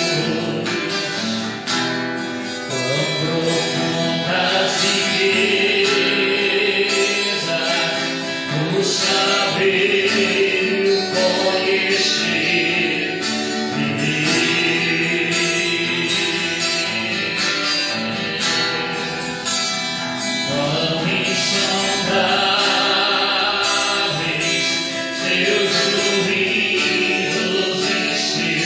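Gospel song: a voice singing over a strummed acoustic guitar with a steady beat.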